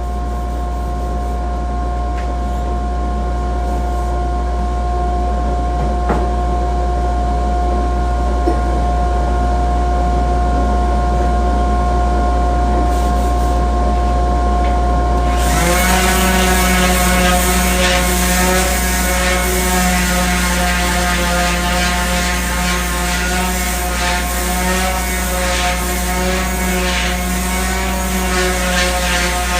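Electric power sander running steadily with a strong hum. About halfway through, the sound thickens: a higher whine and a hiss join and stay.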